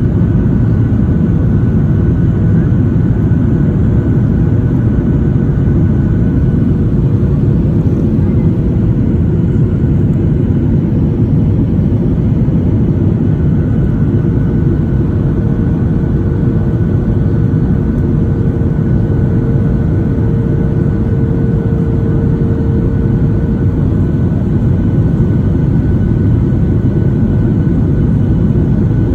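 Steady roar of a jet airliner heard from inside the passenger cabin: engine and airflow noise with a faint steady hum over it.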